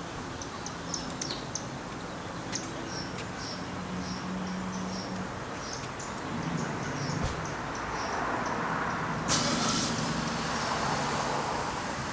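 Outdoor ambience: a vehicle passes, its noise swelling over the second half, over a steady low hum, with short high bird chirps scattered through the first half.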